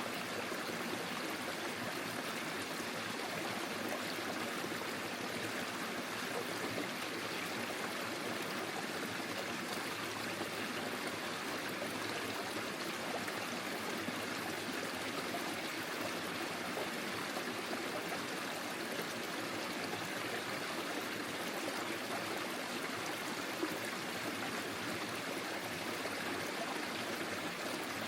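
Forest stream flowing over stones, a steady even rush of water with trickling.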